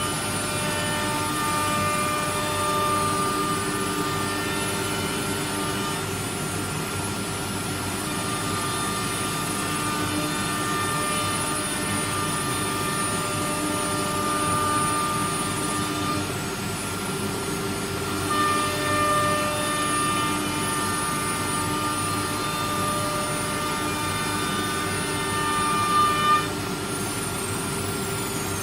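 A carousel automatic-tool-changer CNC router running: a steady mechanical hum with whining tones that stop and start every few seconds. There are two short louder knocks about 26 seconds in.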